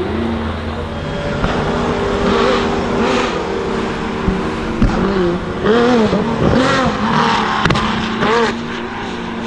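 Hypercar engines running as the cars roll past at low speed. From about halfway through comes a run of several quick throttle blips, each a short rise and fall in revs.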